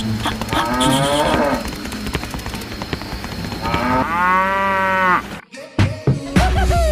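A cow mooing twice: a shorter call about half a second in, then a longer call about four seconds in whose pitch rises and falls.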